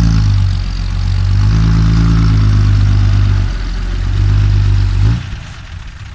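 Six-wheel dump truck's diesel engine held at high revs, dipping briefly twice, then dropping back to a lower idle about five seconds in.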